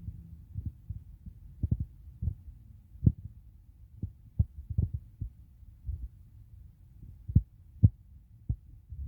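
Muffled low thumps, irregular but at about a walking pace, with no higher sound at all.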